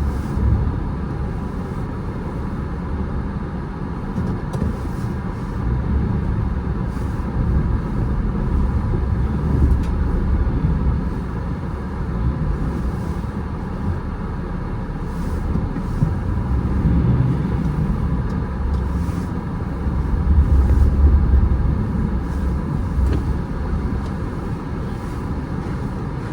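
Car driving: a steady low rumble of engine and road noise, swelling briefly about twenty seconds in.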